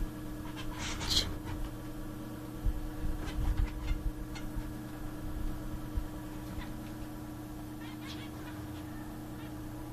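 Zebra finches giving short, sharp calls now and then, the loudest about a second in, over a steady low hum.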